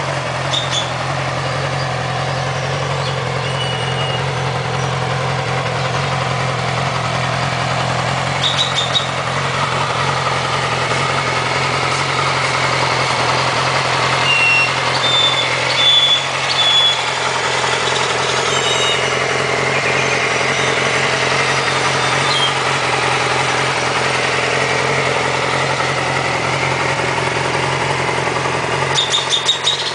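2007 Yamaha R6's 600 cc inline-four engine idling steadily.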